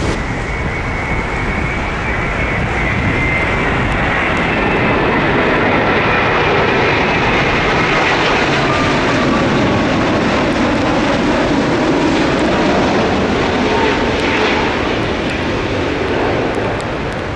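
Jet airliner passing on its landing approach, its engine whine slowly falling in pitch, over heavy wind noise buffeting the microphone.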